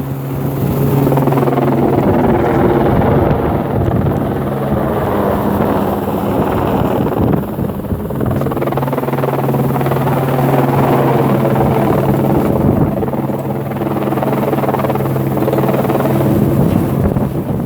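Helicopter running close by, its rotor and engine making a loud, steady drone. The sound eases a little a few times.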